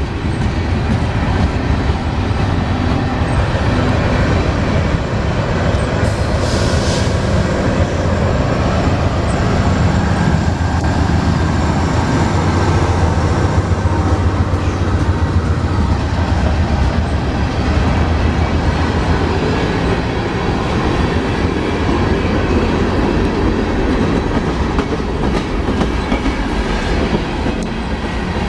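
Norfolk Southern freight train passing close by, its cars giving a steady rumble and clatter of steel wheels on the rails. A diesel locomotive goes past about halfway through, and its low engine drone is strongest then.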